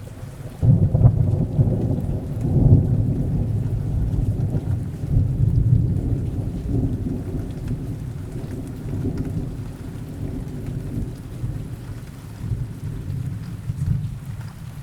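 A roll of thunder over steady rain: a deep rumble sets in about half a second in, swells in the first few seconds, then slowly fades while the rain hiss goes on.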